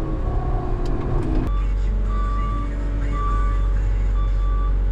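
Wheel loader's diesel engine running with a deep, steady rumble. From about a second and a half in, its backup alarm beeps about once a second as the machine reverses.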